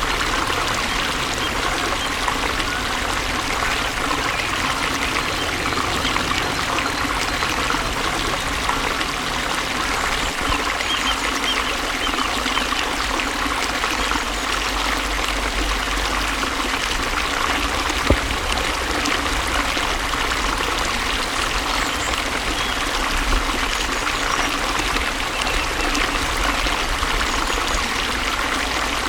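Flowing water running steadily, an even trickling rush, with a single brief tap about two-thirds of the way through.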